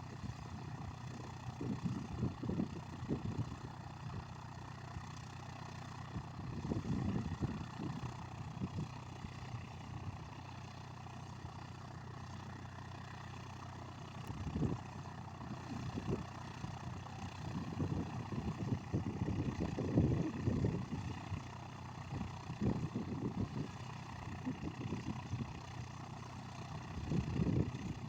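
Cessna 152's four-cylinder Lycoming engine and propeller droning steadily, with irregular low rumbles of wind buffeting the microphone.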